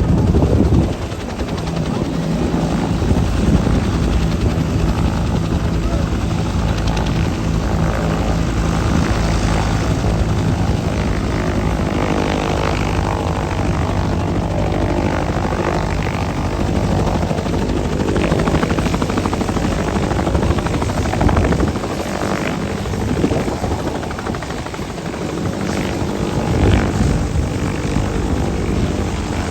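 Helicopter flying, a continuous drone of rotor and turbine with steady low rotor tones. The sound drops a little about a second in and eases for a few seconds later on.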